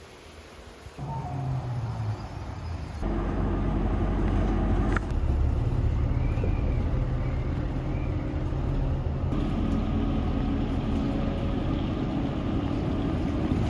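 Motor vehicle running with a steady engine hum and road noise, in a few abruptly joined stretches.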